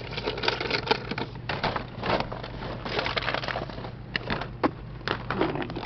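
Assorted household objects clattering and rustling as they are rummaged through and pushed aside, with many irregular small knocks and clicks.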